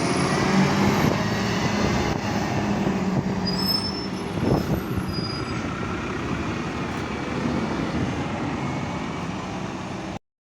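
City bus running, its engine giving a steady hum over road noise, with a short rising-and-falling hiss about halfway through. The sound cuts off abruptly near the end.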